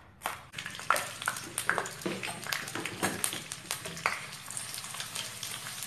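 A knife knock on the cutting board at the very start, then dried anchovies frying in hot oil in a wok: a steady sizzle full of crackles and pops while a spatula stirs them, the popping thinning out near the end.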